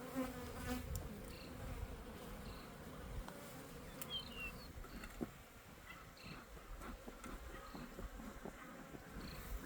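Honeybees buzzing around an opened hive during an inspection, with a few faint clicks and knocks mixed in.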